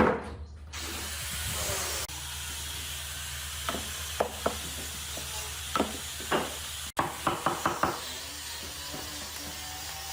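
A series of sharp knocks over a steady hiss and hum, with a quick run of about five knocks just after a sudden break around seven seconds in.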